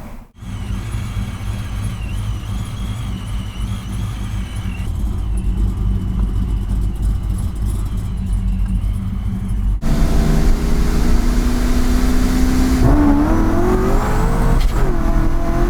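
Supercharged LS1 V8 of a C5 Corvette with a Vortech YSI blower, running steadily with a high whine over the engine note; about ten seconds in it cuts to a louder run where the engine revs up, eases briefly, then climbs again.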